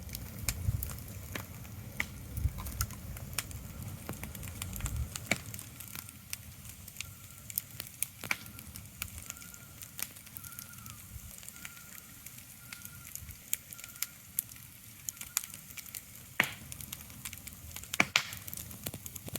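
Irregular sharp crackles and ticks, like a wood fire crackling, over a quiet background. A low rumble fades out about five seconds in, and a faint high tone comes and goes in short dashes through the middle.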